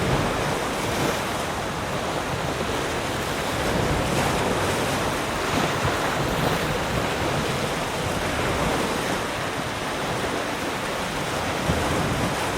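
Ocean waves breaking and washing in steadily, a continuous surf rush with gentle rises and falls in loudness.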